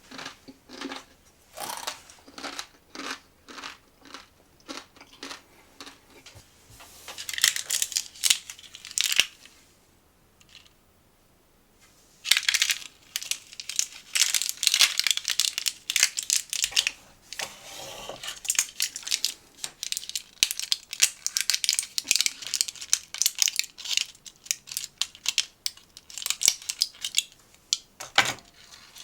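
Packaging crinkling and tearing as a snack is opened by hand, in dense runs of short crackles that stop for about two seconds near the middle.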